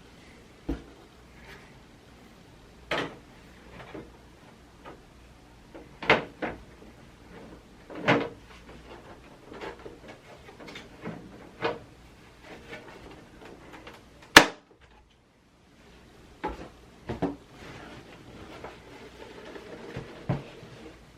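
Irregular taps, clicks and knocks of a PlayStation 5 console and its parts being handled, about a dozen in all, with one sharp, loud click about fourteen seconds in.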